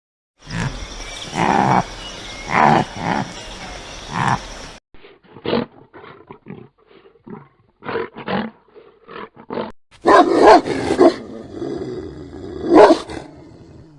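Animal calls in three back-to-back clips: a run of loud repeated calls, then a stretch of quieter short sounds, then more loud calls near the end.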